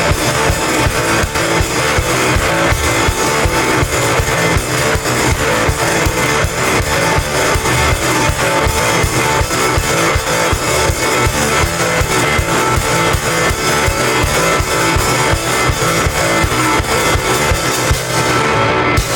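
Rock band playing loudly: electric guitar over a drum kit, with fast, steady drumming. Near the end the drums and cymbals stop and a low held note rings on.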